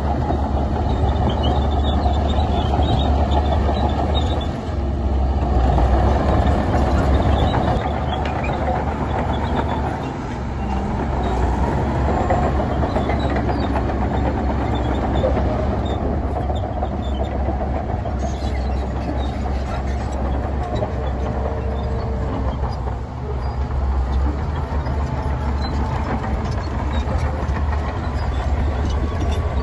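Heavy earthmoving machinery running: a steady, loud diesel rumble with scattered clanks and rattles, easing off briefly a few times.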